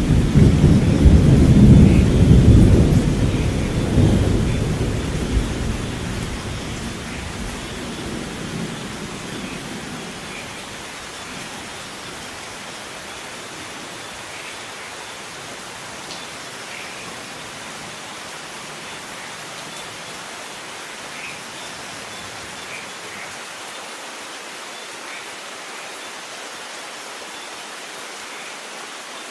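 Thunderstorm: a long roll of thunder rumbling loudly at first and fading away over about ten seconds, leaving steady rain with scattered drops.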